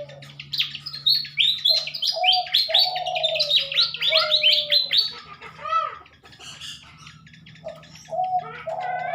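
Fantails (sikatan kipas) singing: fast runs of high, squeaky chirps, loudest in the first half and starting again near the end. Under them runs a series of lower, short falling notes, repeated about twice a second.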